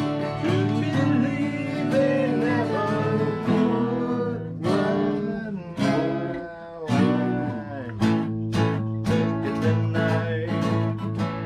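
Acoustic guitar music, strummed, with a gliding melody line that may be a singing voice.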